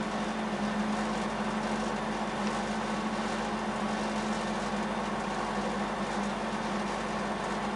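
Volvo 142S rally car's four-cylinder engine idling steadily, heard from inside the cabin.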